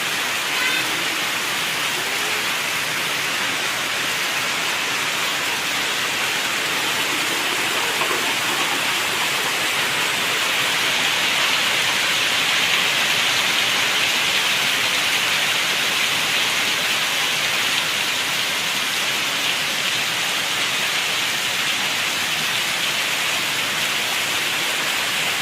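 Heavy rain falling, a steady hiss that does not let up.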